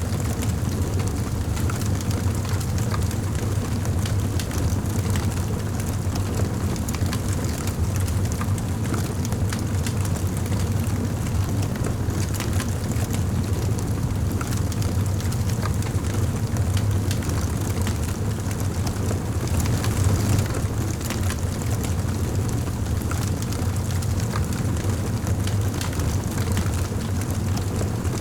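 Wood fire burning in a fireplace: a steady low rumble of flames with small crackles and pops scattered throughout, one a little louder about twenty seconds in.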